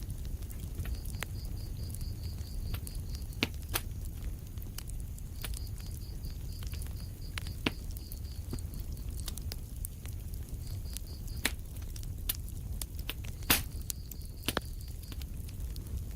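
Fire in a fireplace crackling: irregular sharp pops and snaps over a low steady rumble of the flames, the loudest pop coming about three-quarters of the way through.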